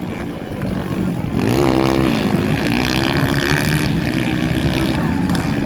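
Motocross bike engine revving: the pitch climbs steeply about a second and a half in, drops back, then holds steady at high revs.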